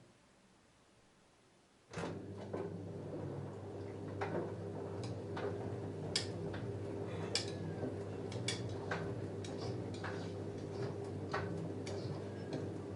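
LG F10A8HDS5 front-loading washing machine starting to turn its drum about two seconds in: a steady motor hum with irregular clinks as the metal buttons and zips on a load of jeans knock against the drum.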